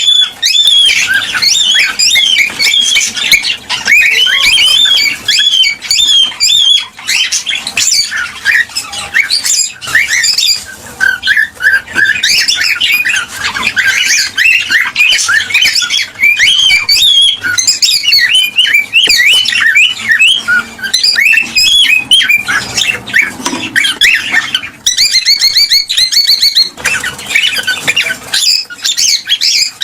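Cockatiels chirping, whistling and squawking in a dense, continuous chatter of many short, overlapping calls that bend in pitch.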